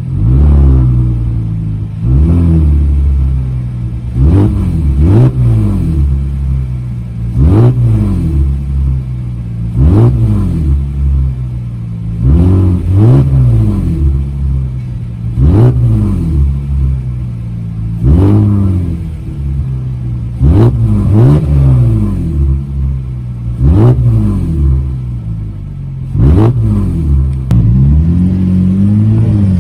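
Kia All New K7's engine heard through a custom end exhaust, revved in about a dozen quick blips roughly every two and a half seconds. Each blip rises sharply and falls back to a steady idle, and a slower, longer rev begins near the end.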